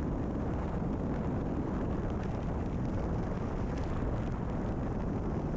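Cessna 172RG cabin noise during the flare and touchdown, with the engine pulled back to idle: a steady low rumble of engine and rushing air, with no distinct bumps.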